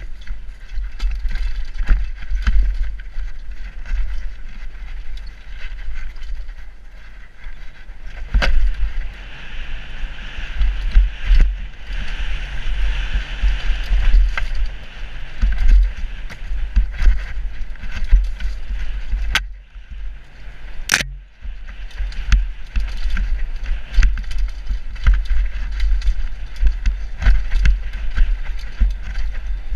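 Mountain bike descending a forest downhill trail: heavy wind buffeting on the rider's camera microphone, with constant rattling and knocks from the bike over rough ground. The noise dips briefly about two-thirds of the way through.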